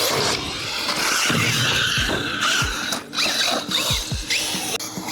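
Radio-controlled DR8 truck driving hard around a skatepark: its motor whines and revs in short rising bursts over the noise of tyres on concrete, with several low thumps as it hits and lands on the ramps.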